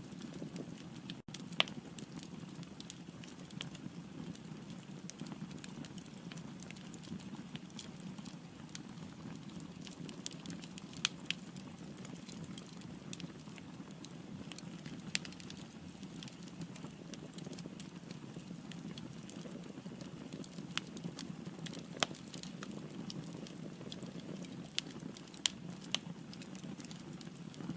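Firewood burning in a fireplace: a steady low hiss of the flames with frequent sharp crackles and pops scattered throughout, a few standing out louder.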